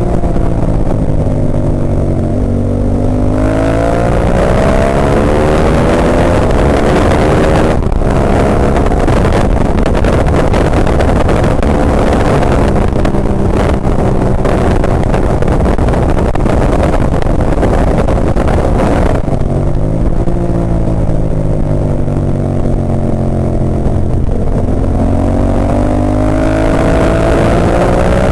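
Ducati 998's V-twin engine heard onboard during a race lap. The revs drop and climb again in the first few seconds, then stay high under heavy wind rush for about fifteen seconds, before easing and climbing again near the end.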